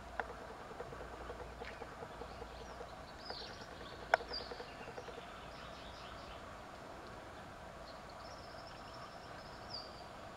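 Birds calling with short, high, falling chirps over faint riverside ambience, with one sharp click about four seconds in.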